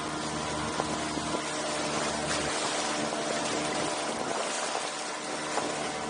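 Boat engine running steadily, under a loud rushing hiss of water and wind.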